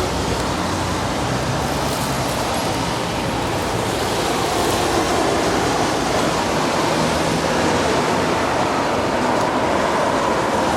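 Steady, loud street noise of heavy rain and road traffic: an even wash of sound with no distinct events.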